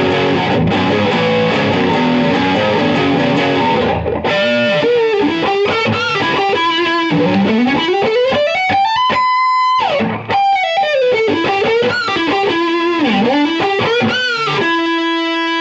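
Distorted electric guitar, a Gibson The Hawk's bridge humbucker through the Joyo Firebrand Bantamp's lead channel with the gain turned up. It opens with about four seconds of chords, then plays single-note lead lines: a long rising slide to a held high note, descending runs, and a sustained note near the end.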